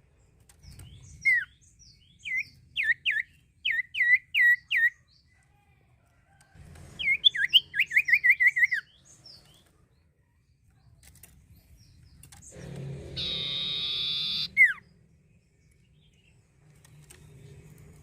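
Common iora singing: a string of clear, down-slurred whistled notes, then a fast trill of repeated notes. Near the end comes one long, harsh buzzy note that finishes in a sharp whistle.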